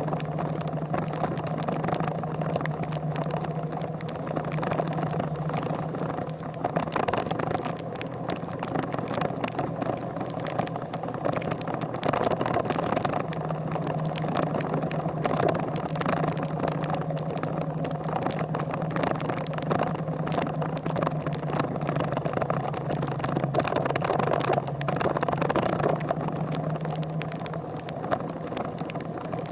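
A vehicle engine running steadily with a low hum, under a dense crackle of small clicks and rattles. The hum drops out for several seconds early on and fades near the end.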